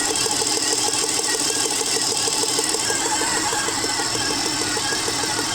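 Hyundai G6BA 2.7-litre V6 engine idling with a steady, fast, even knock. The owner describes it as a dull knock, present cold and hot, that goes away when the revs are raised, and noticed it after replacing the spark plug wires.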